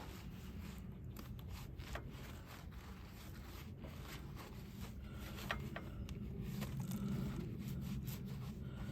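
Faint rubbing and scattered light clicks of a hand wiping grime off a riding mower's oil drain extension.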